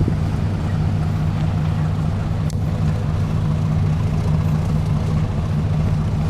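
A 2000 Chevrolet pickup truck's engine idling steadily.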